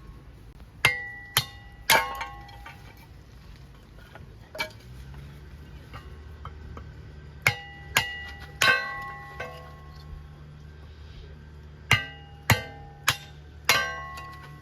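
Hard metal objects striking each other with a bright ringing clink, in small clusters of two or three strikes, over a faint steady low hum.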